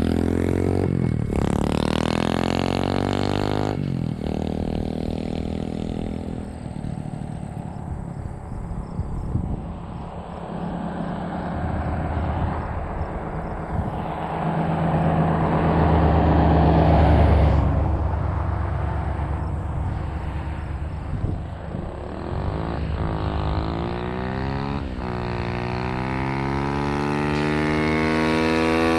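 Dirt bike engine accelerating hard through the gears on a speed run, its pitch climbing and dropping back at shifts about one and four seconds in. It then holds at speed and climbs in pitch again over the last few seconds.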